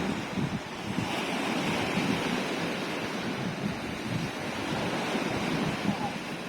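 Sea waves washing in: a steady rush of surf, with wind buffeting the microphone.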